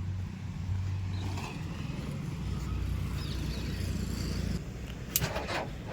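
JCB 2DX backhoe loader's diesel engine running steadily at low speed, with a few short knocks near the end.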